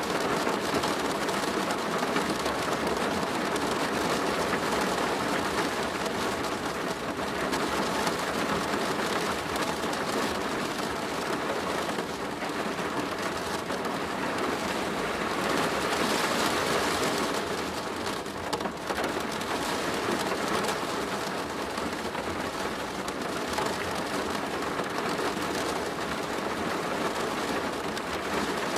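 Steady rain drumming on a plastic roof, a dense, even patter that swells slightly a little past halfway.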